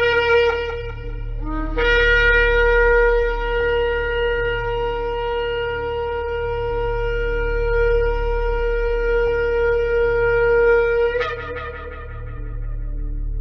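Shofar blasts: one blast ends just after the start, then a brief lower note steps up into a long held blast of about nine seconds, which breaks and tails off a couple of seconds before the end. A steady low hum runs underneath.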